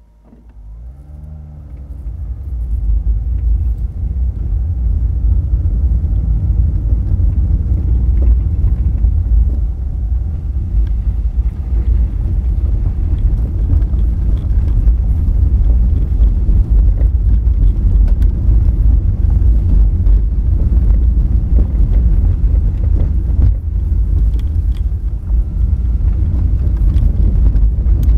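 Honda Fit pulling away, the engine note rising over the first couple of seconds, then driving steadily over a rough gravel road. A loud low rumble of tyres and road noise runs throughout, with scattered clicks and knocks of stones.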